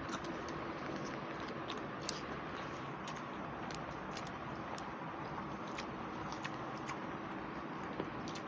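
People chewing food while eating rice and curry by hand, with scattered small wet mouth clicks over a steady background hum.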